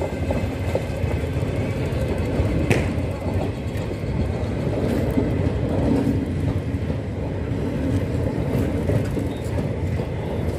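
Passenger train coaches rolling past close by: a steady rumble of wheels on rails with scattered faint clicks, and one brief sharp click about three seconds in.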